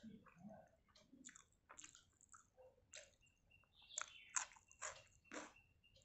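Faint close-up eating sounds: wet chewing and lip smacks from a woman eating water-soaked rice (panta bhat) by hand. There is an irregular run of short clicky smacks, loudest a little past the middle as she takes a fresh mouthful.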